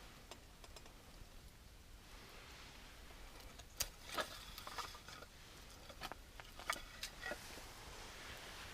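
A faint hiss with a handful of sharp clicks and knocks, about six of them spread over the middle few seconds.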